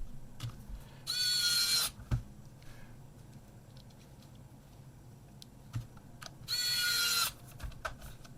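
Small electric screwdriver running in two short bursts of just under a second each, with a steady whine, driving the two side screws into a plastic camera body; light clicks of handling between them.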